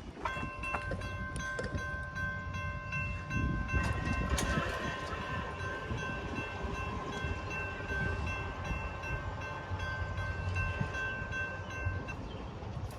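Locomotive air horn sounding one long, chord-like blast that cuts off about twelve seconds in, over a low rumble.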